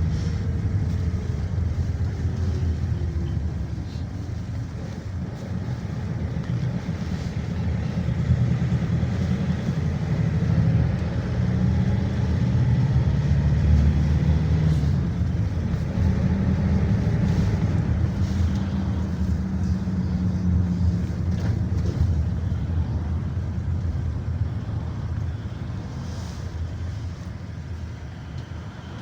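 GAZelle Next minibus driving, heard from inside the cabin: a steady low engine and road rumble, with the engine note rising and falling as the speed changes. It grows quieter over the last several seconds as the bus slows.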